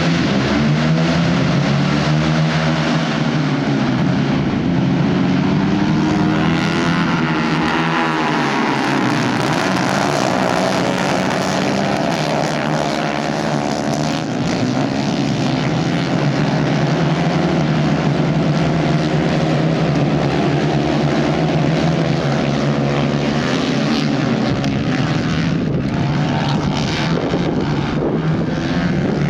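Racing karts with 150 cc Kayak engines running at race pace, several engine notes overlapping and rising and falling in pitch as the drivers accelerate and lift.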